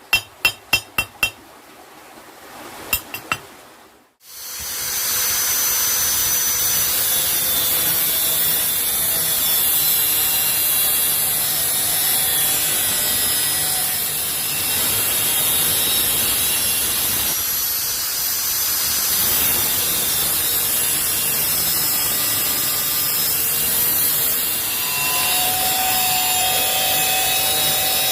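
A few sharp knocks, then from about four seconds in a power tool grinding the steel of a chisel being made into a knife, running without a break with steady whining tones over a rough rasp.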